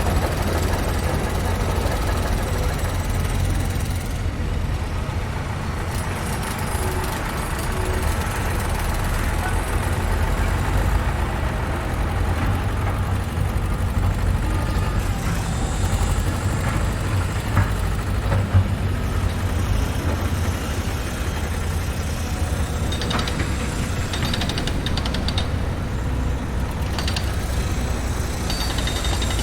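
Construction site ambience: heavy machinery engines rumbling steadily, with a few sharp knocks a little past the middle and a short spell of metallic rattling near the end.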